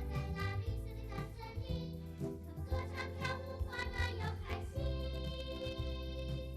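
Children's theme song: voices singing over an instrumental accompaniment, ending on a long held note.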